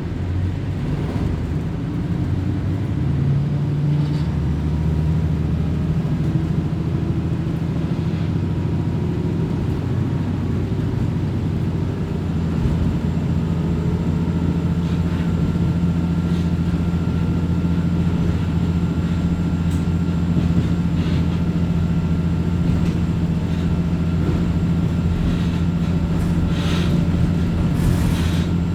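Diesel railcar running under power, heard from inside the passenger cabin: a steady low engine drone with wheel and rail noise. The engine note climbs over the first ten seconds and changes about twelve seconds in, with a few light clicks near the end.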